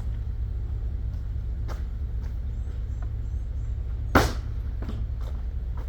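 Handling knocks and clicks while a camera is set up, with one loud thump about four seconds in, over a steady low rumble.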